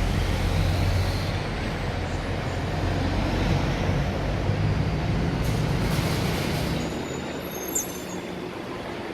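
Twin-turbo V8 of a 2017 BMW Gran Coupe running steadily at low revs with a deep, even rumble that eases off about seven seconds in. A short sharp click comes near the end.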